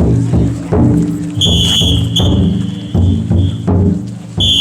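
Large taiko drum on a Niihama festival float beating steadily, about three strokes every two seconds, over a steady low drone of voices. Long shrill whistle blasts sound about a second and a half in and again near the end.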